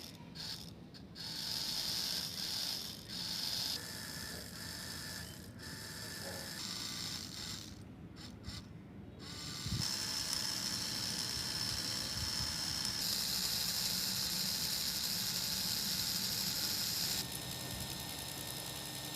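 Small electric motor of a homemade model chaff cutter running with a steady high whine and a mechanical, gear-like rattle. It comes in several short edited segments, and the sound gets louder and brighter about halfway through.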